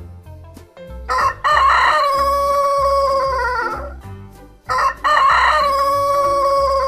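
A rooster crowing twice: two long cock-a-doodle-doos of about three seconds each, the first starting about a second in and the second a little after halfway.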